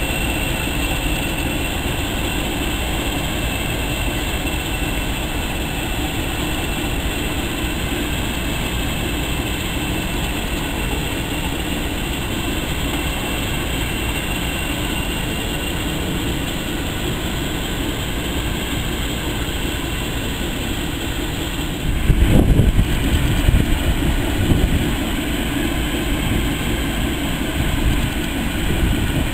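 Diesel locomotive running steadily as it moves slowly over the station pointwork. About 22 seconds in, a louder, uneven low rumble takes over as a steam locomotive with its carriages is heard.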